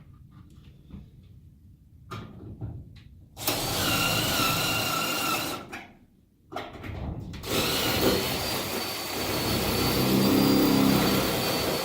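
Cordless power drill drilling holes, running in two goes: a few seconds with a steady whine, a short stop, then a longer run. A few light knocks come before the first run.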